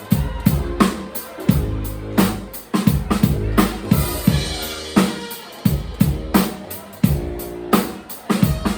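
Live band music: a drum kit beating a steady groove, about two to three hits a second, over a held low bass line and sustained pitched chords.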